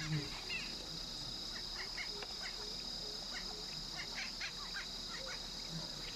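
Outdoor ambience: a steady high-pitched insect drone with many short, scattered bird chirps.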